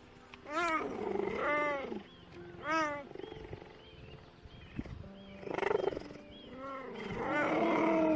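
An animal calling: a series of short pitched calls that rise and fall in pitch, the longest and loudest near the end.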